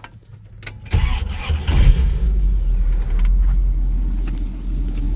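1956 Cadillac's V8 engine starting about a second in, swelling briefly, then settling into a steady, low idle.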